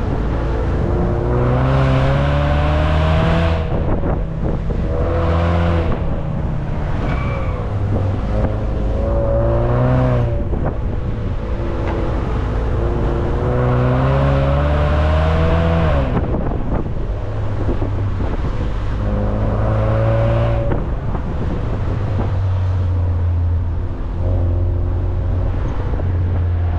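Car engine pulling hard out of corners and easing off again, about five times: each time its pitch climbs for one to three seconds and then drops back. A steady low drone runs between the pulls.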